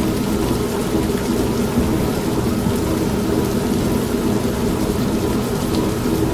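Old washing machine running with a steady hum, mixed with continuous rain and thunder.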